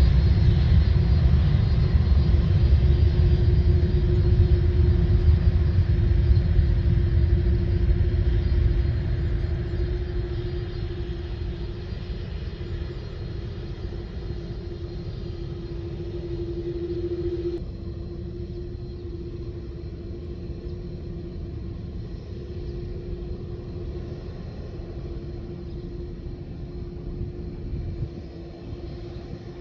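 Jet airliner engines rumbling, loud at first and fading over about ten seconds as the aircraft moves away, with a steady engine hum held throughout.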